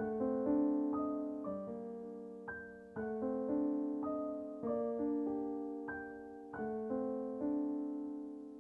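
Slow, gentle piano music: soft chords struck about once a second, each ringing out and fading, with the last chord dying away near the end.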